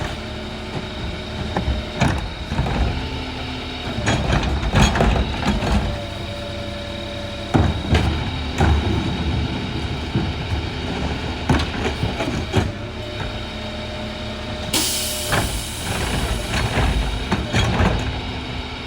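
Freightliner garbage truck with a Heil rear-loader body running, with repeated bangs and clanks of recycling being tipped into the hopper. About 15 seconds in comes a sudden hiss of air that fades over a couple of seconds.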